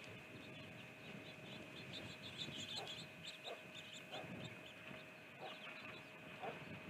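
Small birds chirping: a scatter of short, high calls, busiest two to three seconds in, over a faint steady high tone and low background noise.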